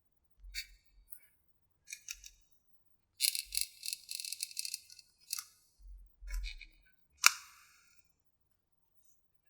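Small hard objects clicking and rattling: a few separate clicks, then a denser rattle lasting about a second and a half in the middle, and a single sharp click with a short ring-out near the end.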